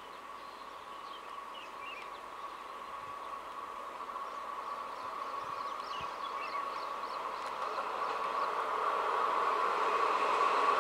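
MEMU electric multiple unit approaching on the rails: a steady hum with a clear high tone over a running rumble, growing steadily louder as the train draws near.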